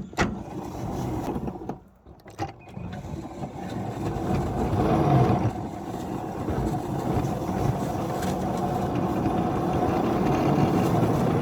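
Small ride-on railroad locomotive pushing a snow plow through snow on the track, its drive running steadily under heavy load after a couple of knocks and a short drop about two seconds in. The strain is enough to risk burning out a traction motor.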